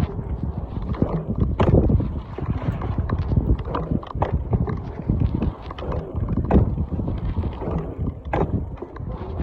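Low rumble with irregular knocks and clatters, a few sharper knocks standing out, as when a bicycle is ridden with the microphone on board.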